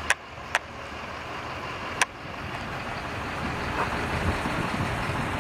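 1996 Pontiac Trans Am's LT1 V8 idling near the starting line under a steady wash of noise that slowly grows louder. Three sharp clicks come in the first two seconds.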